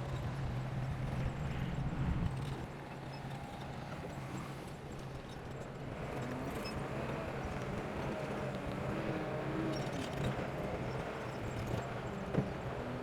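Bulldozer's diesel engine running, louder for the first couple of seconds and then easing to a steady lower level, with scattered clanks and a sharp knock near the end.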